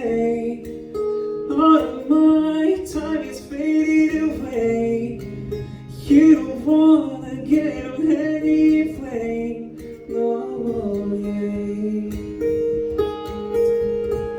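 Live song with acoustic guitar accompaniment: a voice sings a drawn-out, wordless melodic line over the guitar, then drops out about ten seconds in, leaving the guitar ringing on alone.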